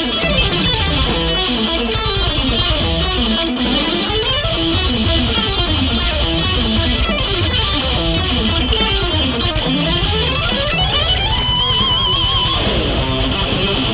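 Electric guitar playing fast rising and falling note runs over a backing track, then holding a note with wide vibrato about eleven seconds in.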